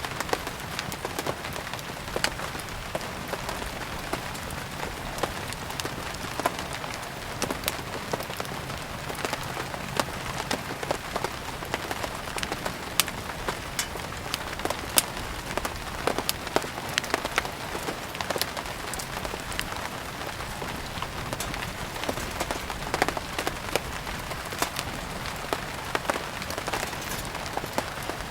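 Steady rain mixed with a crackling wood fire: an even hiss of rainfall with frequent, irregular sharp pops and crackles throughout.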